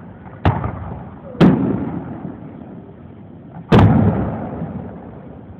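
Fireworks shells bursting: three loud booms about half a second, one and a half, and almost four seconds in, each followed by a rolling echo that fades.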